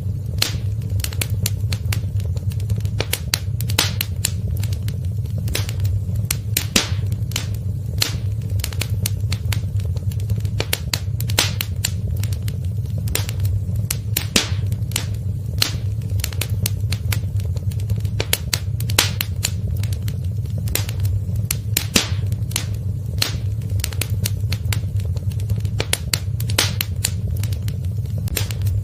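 Wood fire burning in a fireplace, crackling and popping irregularly several times a second over a steady low rumble of the flames.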